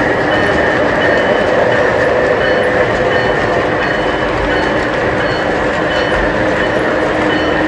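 O-gauge model train running steadily on the layout's track, a continuous hum and rumble from the locomotive motor and the wheels on the rails.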